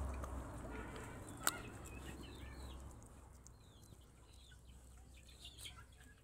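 Birds chirping in short, high, repeated calls, over a low rumble that fades after about three seconds, with one sharp click about a second and a half in.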